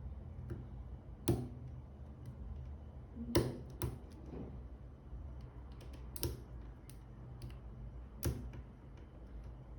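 Irregular sharp clicks and taps of small hard parts being handled, a few louder than the rest, over a low steady hum. These are most likely the watch, its band and small tools being worked on.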